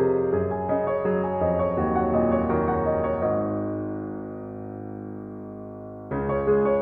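Slow instrumental music played on piano. About halfway through, a chord is held and slowly fades, and the playing picks up again near the end.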